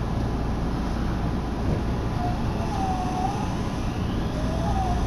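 Inside a Meitetsu Komaki Line electric train as it pulls out of the station: a steady rumble of the running train, with short gliding motor-whine tones that dip and rise in the second half as it gathers speed.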